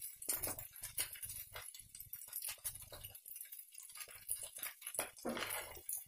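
A person chewing a mouthful of fried rice to taste the seasoning, close to the microphone: wet clicks and a regular chewing rhythm of about two to three strokes a second, with a brief pause a little after three seconds in.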